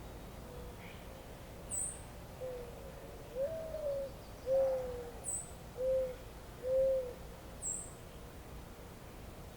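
Birds calling over a faint steady background: a series of about five low, hollow hoots in the middle of the stretch, and three short, very high chirps spaced a few seconds apart.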